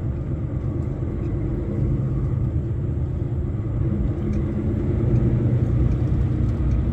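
Truck engine's steady low rumble heard inside the cab, running slowly in stop-and-go traffic.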